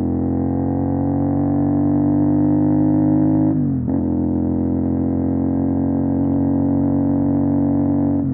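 CFMOTO 450 SR's parallel-twin engine through an MSH G6 full-system exhaust, pulling under load with its pitch slowly rising. About three and a half seconds in, the pitch drops sharply as it shifts up a gear, then holds steady.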